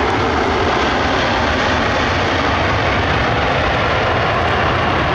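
Jet airliner engines, a loud steady rushing noise that holds at one level throughout.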